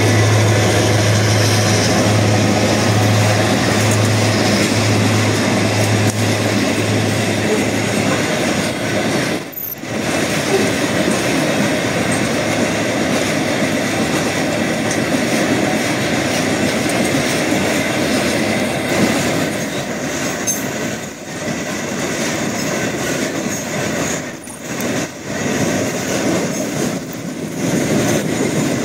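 Train passing close by on the rails, a continuous loud rolling rush of wagons over the track. A low steady engine hum, from a diesel locomotive, fades out about seven seconds in.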